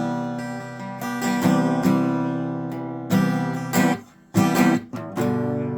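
Acoustic guitar strumming chords in a song's instrumental opening. About four seconds in the playing stops briefly, then comes back with a few sharp strokes and a ringing chord.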